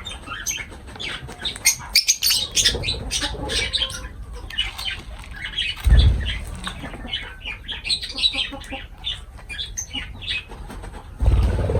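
Lovebirds chattering with a dense run of rapid, high-pitched chirps and squeaks, with two brief low flutters of wing flapping about six seconds in and near the end.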